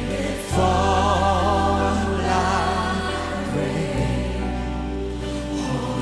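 Contemporary worship music: a band holds sustained chords under wavering sung voices, with the bass chord changing about half a second in and again at about four seconds.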